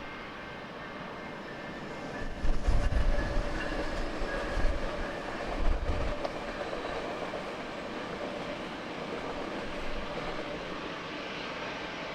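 Steady rumble of jet airliner engines, with a few low gusts of wind buffeting the microphone between about two and six seconds in.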